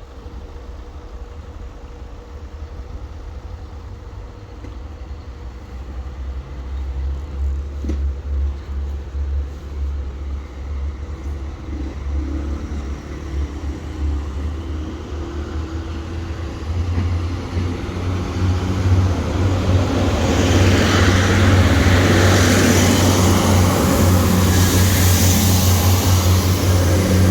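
Vehicle noise building up: a low, steady engine rumble grows louder, and a loud rushing noise comes in over the last seven seconds or so.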